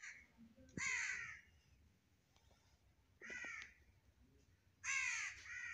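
A bird calling four times, each call under a second long, the calls spaced a second or two apart with the last two in quick succession near the end.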